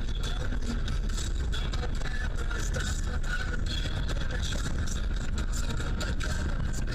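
A car driving, giving a steady low rumble of engine and road noise, with many small clicks and crackles throughout.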